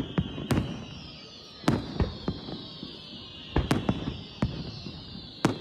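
Aerial firework shells bursting in sharp bangs, about ten of them, some in quick clusters of two or three. Music plays underneath, with a high falling tone that recurs about every two seconds.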